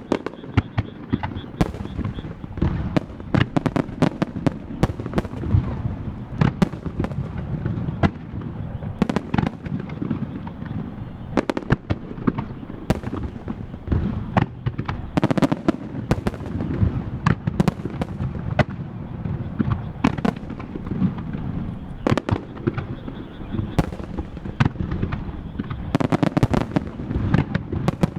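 Starmine fireworks barrage: shells fired and bursting in rapid volleys, many sharp reports a second overlapping over a continuous low rumble.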